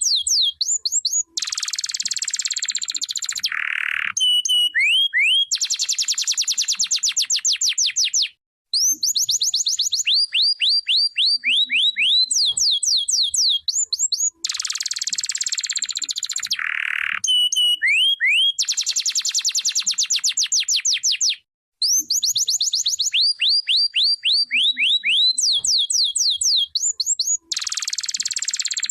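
Domestic canary singing a long, continuous song of rapid rising whistled notes, buzzy trills and rolls. The same run of phrases comes round again about every 13 seconds, broken by two short pauses.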